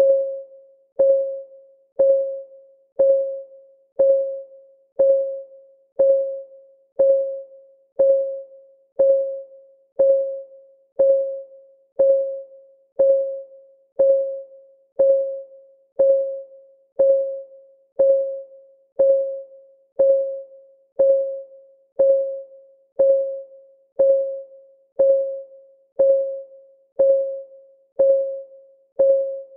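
Countdown timer's clock-ticking sound, one even tick per second: each tick a sharp click with a short pitched ring that fades quickly.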